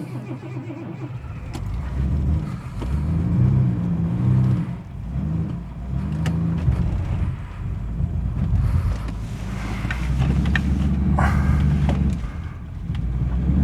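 Jaguar XJ6's straight-six engine revving up and down repeatedly under load as the car is driven forward, pitch rising and falling several times. The engine is running poorly with a head gasket that the owner believes is leaking.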